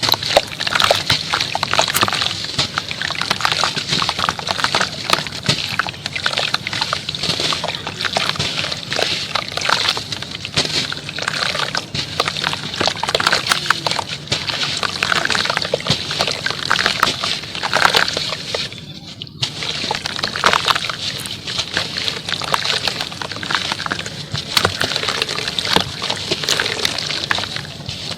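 Lumps of pure cement dipped in water and crumbled, giving a dense wet crackling with sloshing water, broken by one brief pause about two-thirds of the way through.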